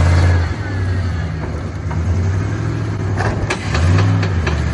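Vehicle engine running, its revs swelling and easing, with a few short sharp clicks.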